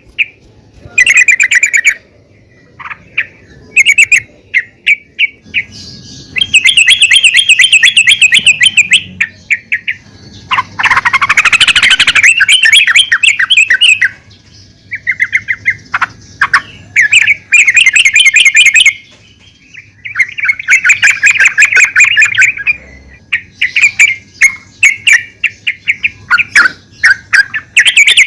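Female yellow-vented bulbul calling to a male: bouts of rapid chattering notes, repeated again and again with short gaps, and one rising sweep about eleven seconds in.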